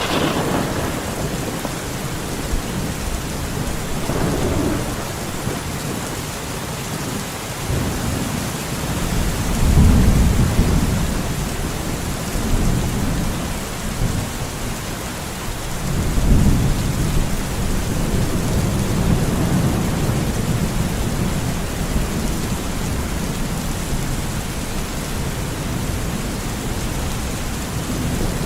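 Steady rain falling in a forest, with low rolls of thunder rumbling under it several times, loudest about ten seconds in and again around sixteen seconds.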